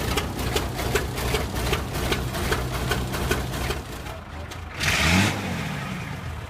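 1942 GMC military truck's engine running, with a busy clatter of sharp ticks over a low hum. About five seconds in it revs up briefly and drops back, with a burst of hiss.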